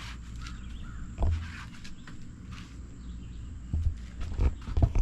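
Handling noise from working a boat-seat piece loose: a soft thump about a second in, then a run of knocks and clicks near the end, over a low steady rumble.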